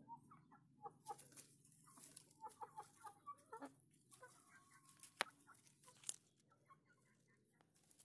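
Faint short bird calls repeating throughout, with a few sharp clicks and a low steady hum underneath.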